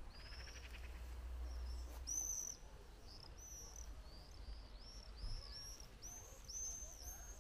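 A small songbird singing: a long series of short, high, arching notes that come closer together toward the end, with a brief rapid buzzy trill near the start and a low rumble underneath.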